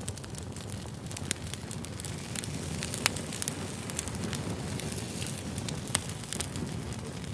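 Fire crackling: a steady low rumble of burning with frequent sharp pops and snaps, the loudest about three and six seconds in.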